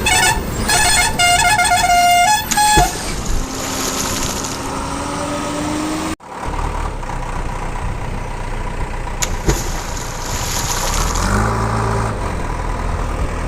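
A vehicle horn tooting in a quick run of short notes for the first few seconds. Then comes a steady rush of noise, with an engine note rising in pitch. The sound cuts off abruptly about six seconds in, and engine-like noise follows.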